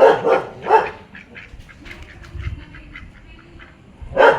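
A dog barking: two quick barks at the start and two more near the end, over a low rumble of wind on the microphone.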